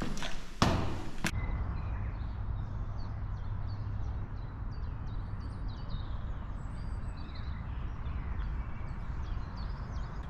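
Two sharp knocks in the first second and a half, then a steady low rumble, like wind on the microphone, under many faint high chirps of small birds calling.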